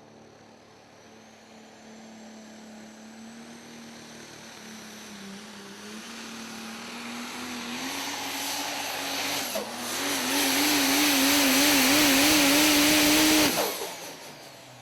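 Super stock diesel pulling truck running at full throttle down the track, growing steadily louder as it comes closer, its engine note climbing slowly and wavering near the peak. The engine sound cuts off suddenly near the end.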